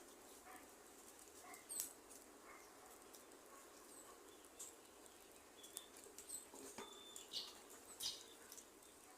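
Faint crackling of a small wood fire: scattered sharp pops and ticks over a soft steady hiss, with a louder pop about two seconds in and a cluster of pops near the end.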